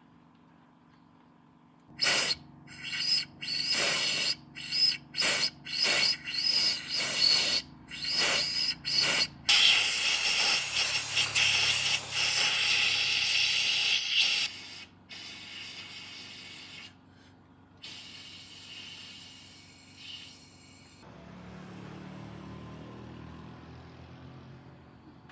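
A hissing spray, first in a quick series of short spurts, then held as one loud continuous hiss for about five seconds before it drops to a fainter hiss; a low hum comes in near the end.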